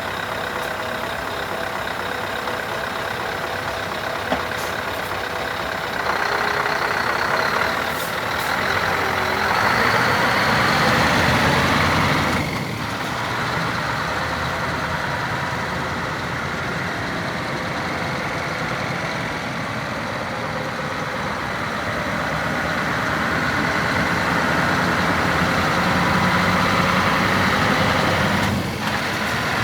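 Scania R500 truck's diesel engine running steadily, louder for a few seconds about six seconds in and again near the end.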